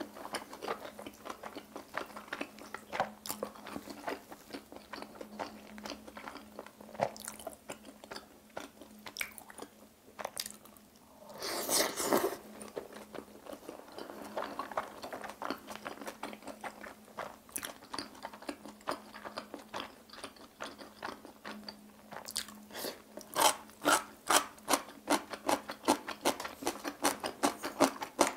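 Close-miked wet chewing and mouth clicks as steamed dumplings and jjajang ramen noodles are eaten. A short loud breathy rush comes about twelve seconds in, and near the end the chewing turns to a run of loud, rapid clicks, about four a second.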